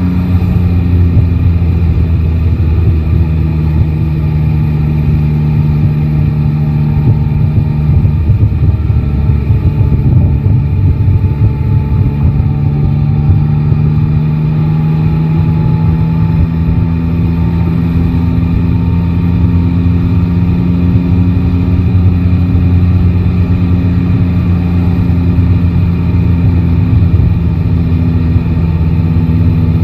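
Yamaha Tracer 9 GT's three-cylinder engine running under steady city riding, its note easing down about a third of the way through and then climbing slowly, with wind and road noise underneath.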